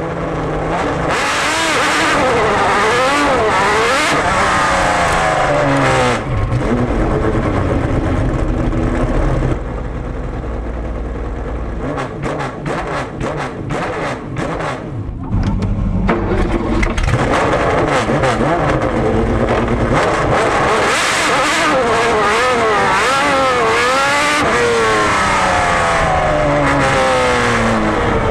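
Jaguar XJR-12 Group C race car's V12 engine at full throttle, revs climbing and dropping through the gear changes. Around twelve to fifteen seconds in it comes off the throttle and a string of sharp crackles and pops sounds on the overrun, then it pulls hard through the gears again.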